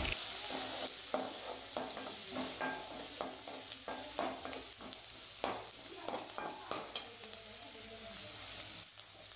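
Chopped onion and green chilli sizzling in oil in a metal kadai while a metal spatula stirs them, scraping and tapping against the pan about once or twice a second over a steady frying hiss.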